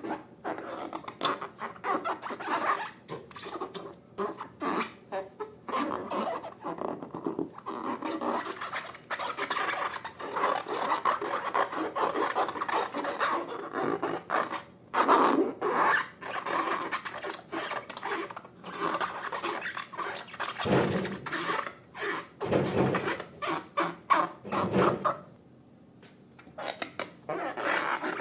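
Hands rubbing, squeezing and working something soft, a quick run of short rubbing and squelching strokes that goes quiet briefly near the end.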